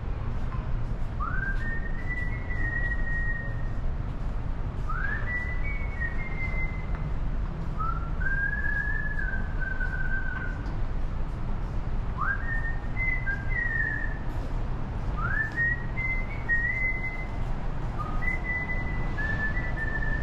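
A whistled melody: short phrases that slide up and then hold, repeating every three to four seconds, over a steady low rumble.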